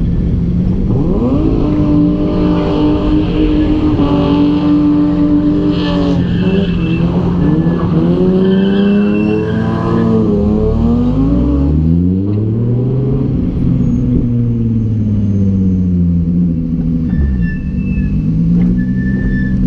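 Car engines revving and accelerating, the pitch climbing, holding, then falling and climbing again several times.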